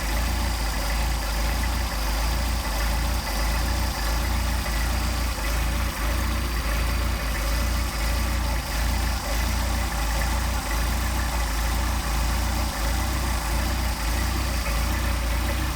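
Mercedes-Benz 190SL's four-cylinder engine idling steadily on twin Solex carburetors while the carburetors are synchronized and the idle speed is set.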